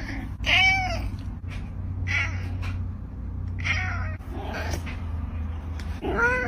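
Domestic cat meowing repeatedly: about five drawn-out calls, each under a second, with a steady low hum underneath.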